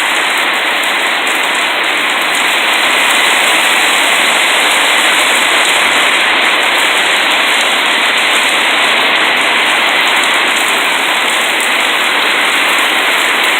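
Heavy rain pouring down and pelting surfaces, a loud steady hiss of a downpour.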